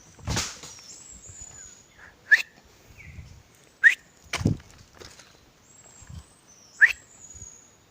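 A person whistling short, sharp, upward-sliding calls three times to lure a bird, with faint high bird notes between them. Dull knocks about half a second and four and a half seconds in, like footsteps on rock.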